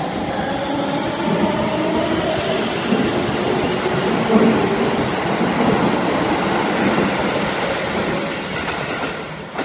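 Electric commuter train pulling away along a platform: a slowly rising motor whine over the rumble of wheels on rail. The sound eases as the last car goes by near the end.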